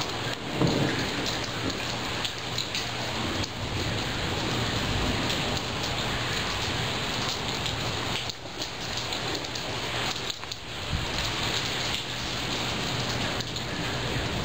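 Steady downpour of a monsoon thunderstorm's rain, with a brief low rumble of thunder about a second in.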